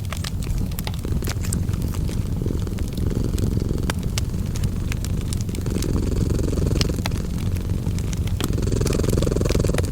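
A cat purring steadily in a low rumble that swells and eases every few seconds, over a wood fire crackling with many sharp pops.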